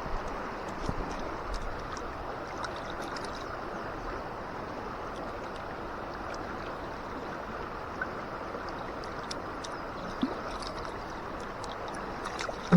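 Steady rush of river water flowing over rocks, with a few faint scattered ticks on top.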